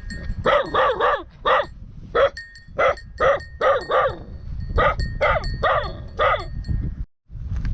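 A dog barking over and over, about fifteen sharp barks in quick runs. A faint steady high ringing tone runs under the middle of it.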